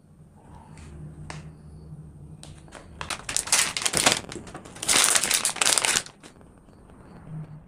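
Two loud bouts of crinkling, scraping noise from something being handled, about three and five seconds in, after a few scattered clicks.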